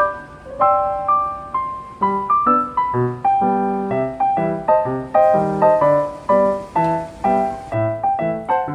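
Background piano music: a gentle melody of separate struck notes, joined by bass notes about two seconds in, in a steady rhythm.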